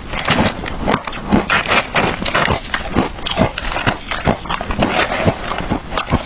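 Close-up crunching and chewing of shaved ice: a dense, irregular run of sharp crunches, several a second.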